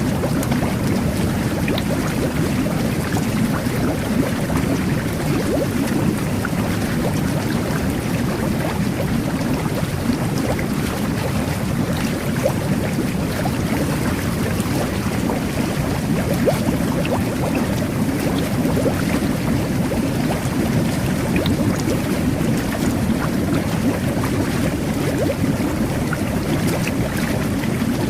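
Jet bath (whirlpool tub) churning steadily: a continuous low rush of water and air jets with bubbles popping at the surface.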